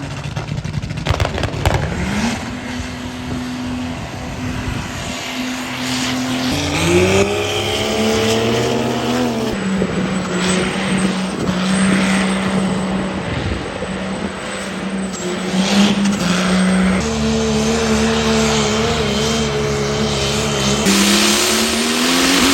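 High-horsepower diesel pickup engines running hard at high revs. Their pitch holds steady for stretches and climbs in glides about seven seconds in and again near the end.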